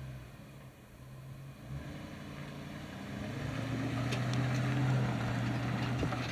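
1993 Dodge Ram 3500 truck engine running steadily just after being started, getting louder about three seconds in.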